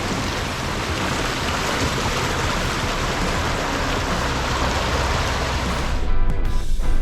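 Steady rush of flowing water over background music. About six seconds in, the water sound cuts off and strummed guitar music carries on.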